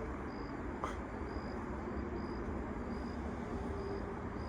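Outdoor ambience: a steady low rumble with a faint, high-pitched insect chirp repeating about once a second, and a single short click about a second in.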